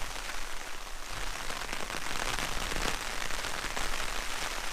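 Rain falling steadily on the fabric of a Six Moon Designs Lunar Solo tent, heard from inside as a dense patter of drops.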